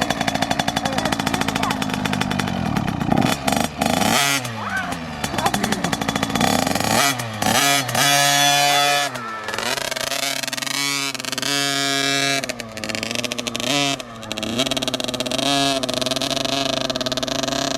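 Two-stroke dirt bike engine running and being revved, its pitch rising and falling in repeated blips. For the first few seconds it is a rougher, noisier rattle before the revving settles into clear up-and-down swells.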